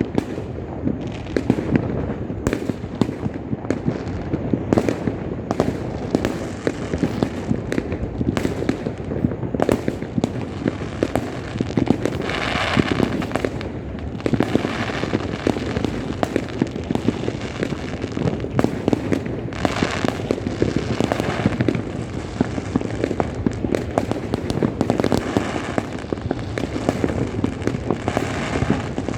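Dense, continuous New Year fireworks and firecrackers: many overlapping bangs and pops, with stretches of fizzing crackle about twelve seconds in and again about twenty seconds in.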